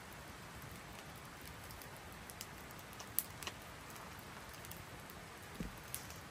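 Steady rain falling, with scattered sharp ticks of individual drops and a dull thump near the end.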